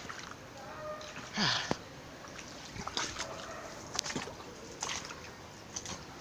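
Gumboots wading through floodwater: irregular splashes and sloshes, the loudest splash about one and a half seconds in.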